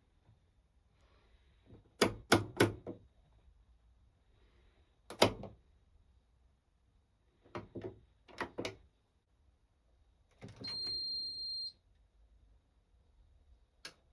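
Controls of an Indesit IWC6165 washing machine being set: sharp clicks in small groups of two or three from its programme knob and option buttons, then a high electronic beep lasting about a second, and one more click near the end.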